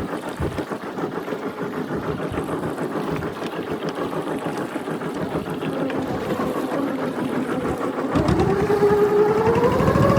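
Fishing boat's engine running steadily, then speeding up about eight seconds in, rising in pitch and getting louder.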